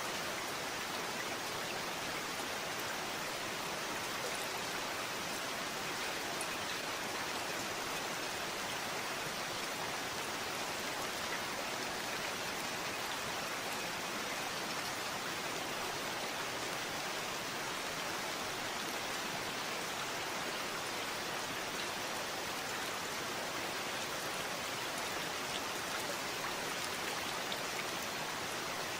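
Steady rain falling, an even hiss of many drops with a few faint individual drop ticks, unchanging throughout.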